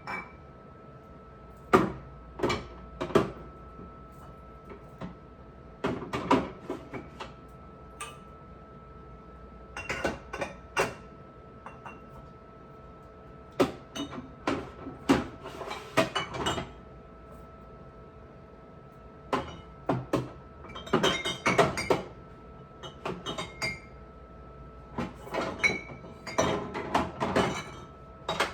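Hard household items such as dishes, glass and containers being handled and set down, knocking and clinking in repeated clusters, with a cupboard- or door-like clunk among them. A faint steady hum runs underneath.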